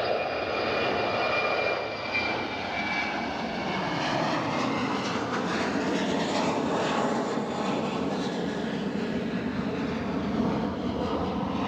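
Jet engines of an Airbus A321 airliner at takeoff power: a steady, loud rush with a high whine that fades after the first few seconds.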